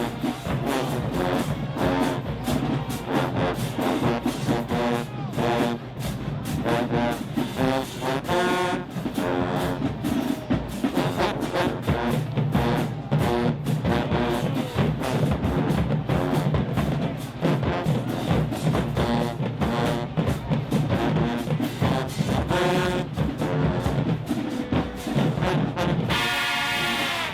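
High school marching band playing: a brass section of trumpets and trombones carrying a melody over a driving drumline.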